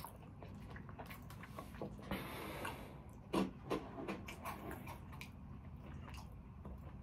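A person chewing food close to the microphone, with irregular wet mouth clicks and smacks; the two loudest smacks come just past the middle.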